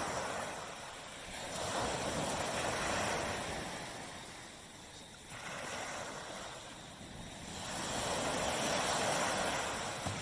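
Small tropical surf breaking and washing up a beach, its hiss swelling and fading three times.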